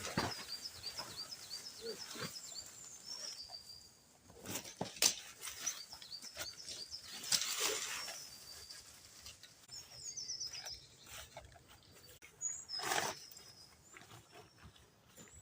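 A small bird singing, with runs of quick high repeated chirps that come and go several times. Several brief louder rustling or handling noises break in between, the loudest about 5, 7½ and 13 seconds in.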